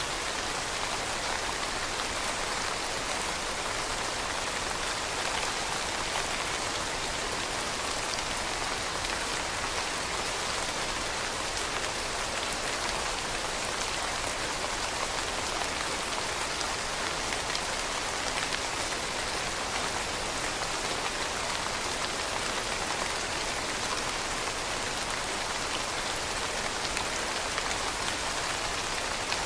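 Steady rain pattering on leaves, a dense even hiss of many small drops with no pause or change.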